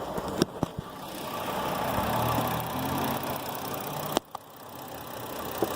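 A car engine idling steadily, with a few short clicks in the first second and one sharp click about four seconds in.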